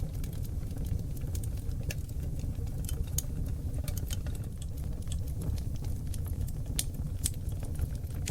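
Wood fire burning on oak logs, with a steady low rumble of flames and irregular crackles and pops throughout, a few sharper pops standing out about three, seven and seven and a half seconds in.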